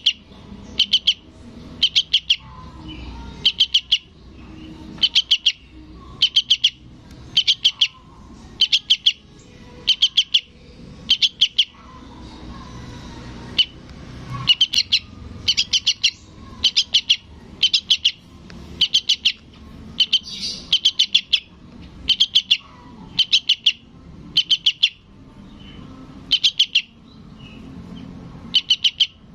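Fledgling sooty-headed bulbul calling for its parent: quick bursts of several short, high chirps, repeated about once a second, with a pause of a couple of seconds partway through.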